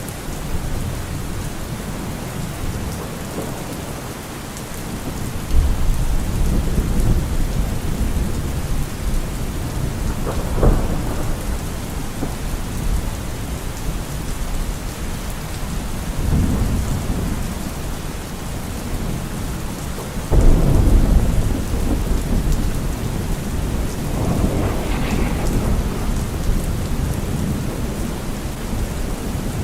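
Steady rain falling through a thunderstorm, with several rolls of thunder. A low rumble comes in suddenly about five seconds in, a sharper crack follows near the middle, and the loudest rumble breaks in abruptly about two-thirds of the way through.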